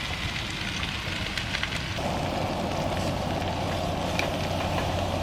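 Steady crackling with many small pops from a camp cooking fire. About two seconds in, a steady low hum and a rushing noise join in and keep going.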